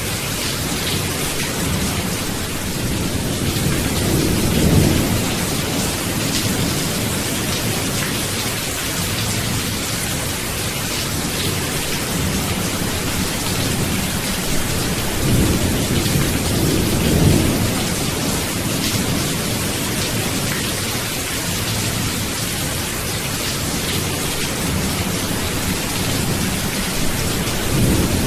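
Steady heavy rain hissing, with low rolling thunder that swells about four seconds in, twice more past the middle, and again at the end.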